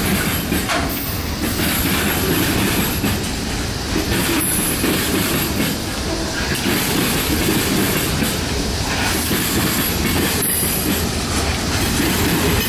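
Freight train cars rolling past close by: a steady rumble of steel wheels on rail, with a clack every second or two as wheels cross rail joints.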